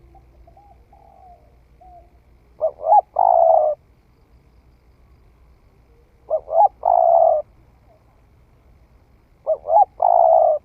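Spotted dove singing its coo phrase three times, about three and a half seconds apart: two short notes and then a longer drawn-out coo. A few faint soft coos come before the first phrase.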